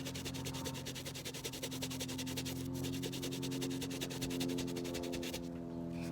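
Rapid back-and-forth scrubbing of a sneaker with a brush, over a steady low hum.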